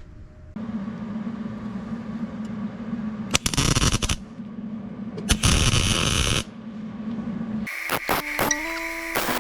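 A welder tacking sheet-metal patch pieces onto a Jeep body: a steady hum comes on, then there are two bursts of arc noise of about a second each. Background music comes in near the end.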